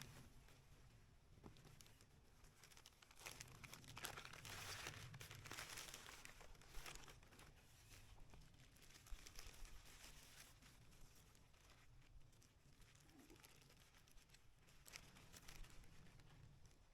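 Near silence with faint crinkling rustles, strongest about four to six seconds in, and a few light clicks.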